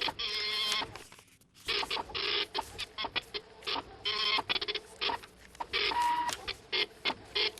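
Rapid mechanical chatter of an office printing machine, coming in repeated short bursts of fine clicking with brief pauses between them, and a short steady tone about six seconds in.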